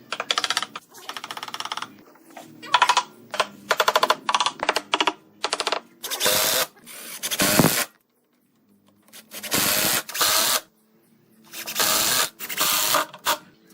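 Woodworking tool sounds: short runs of fast mechanical rattling, then three bursts of rushing noise, each about a second long, with pauses between them.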